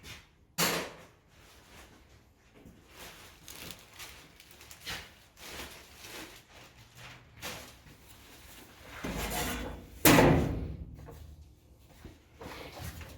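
Workshop knocks and clatter, like parts being handled and set down, with a sharp bang about half a second in and a louder bang about ten seconds in.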